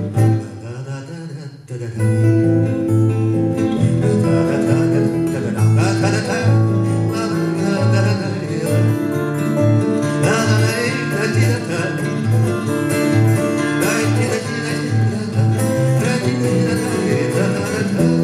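Acoustic guitar playing an instrumental passage, a steady picked bass line under chords. The playing drops away briefly about a second in, then comes back in full.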